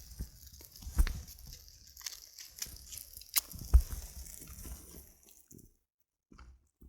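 Birch-bark and spruce-twig tinder crackling and snapping irregularly as it is being lit, with a few sharp snaps and a high hiss that stops suddenly about two-thirds of the way in.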